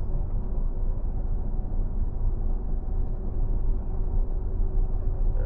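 Steady low rumble of road, engine and wind noise heard from inside a car towing a caravan at about 60 km/h in strong wind, with a faint steady hum.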